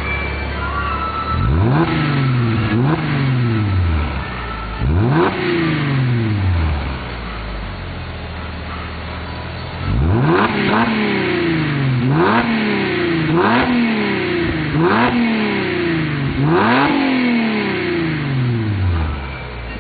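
Mercedes-Benz W207 E350's V6 free-revving through a custom-built centre-to-rear exhaust. Three quick throttle blips from idle are followed by a few seconds back at idle, then six more blips in fast succession; each one rises sharply and falls back.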